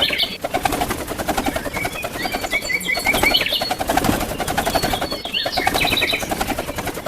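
House sparrows chirping: quick runs of short, high chirps repeated several times, over a steady, rapid pulsing rattle.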